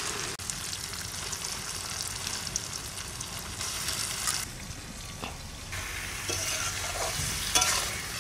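Raw chicken pieces sizzling as they are tipped into hot spiced oil in a kadai over a wood fire, a steady frying hiss. Towards the end a metal spatula stirs them, adding sharp scrapes and clicks against the pan.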